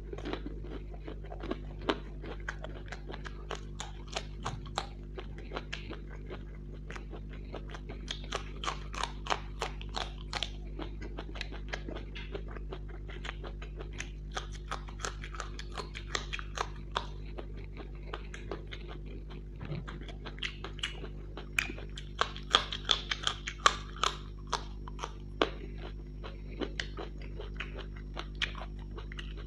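Close-miked mouth sounds of eating crisp fried snacks such as samosas: wet chewing broken by many sharp crunches, with a dense run of loud crunches a little past two-thirds of the way through. A steady low hum lies underneath.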